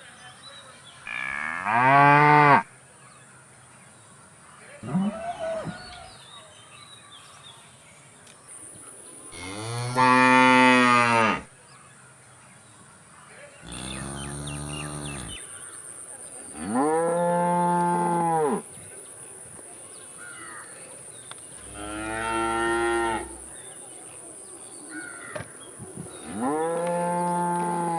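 Cattle mooing: a series of about seven drawn-out calls, each lasting one to two seconds, spaced a few seconds apart.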